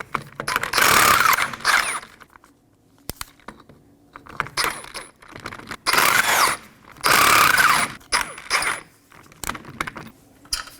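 Power wrench spinning the 19 mm lug nuts off a wheel in several bursts of about a second each, with small metallic clinks of the nuts between bursts.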